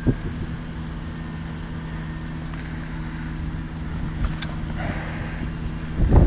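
A steady low engine hum, like a vehicle idling. Near the end a loud gust of wind hits the microphone.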